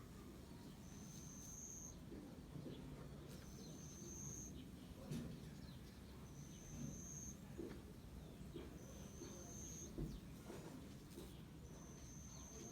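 An insect calling outdoors: a faint, high, steady-pitched chirp, each under a second long, repeated about five times at regular intervals, over low background noise.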